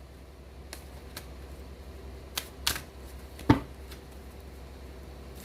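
Tarot cards being handled on a table: a few scattered sharp clicks and taps, the loudest about three and a half seconds in, over a low steady hum.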